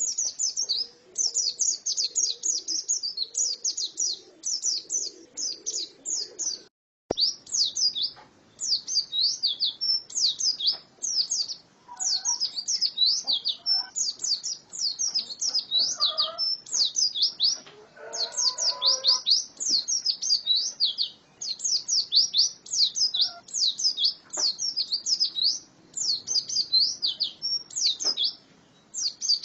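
Female white-eye (pleci) singing: long runs of rapid, high-pitched chirping notes, broken by short pauses between phrases.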